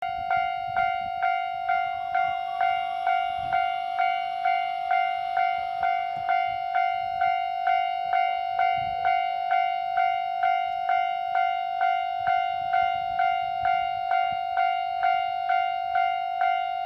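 Japanese railway level-crossing warning bell ringing, one steady tone struck evenly a little over twice a second.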